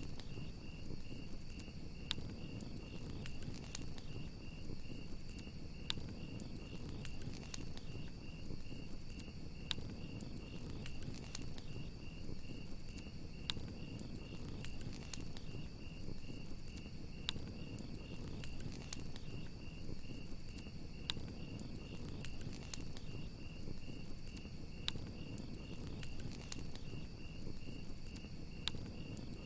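Crickets chirring in a steady, fast-pulsing high trill over a crackling campfire, with irregular sharp pops and a low rumble of the flames.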